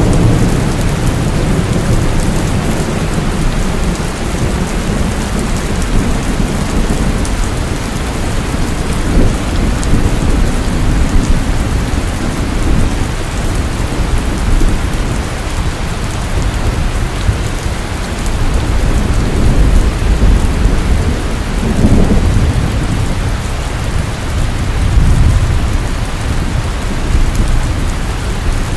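Steady heavy rainfall, an even hiss of drops with a deep low rumble underneath that swells and fades several times.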